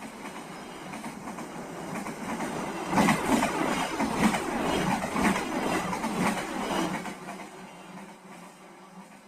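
Brantas passenger train passing, its wheels clacking over the rail joints in a steady rhythm of about one clack a second. It is loudest in the middle and fades away over the last couple of seconds.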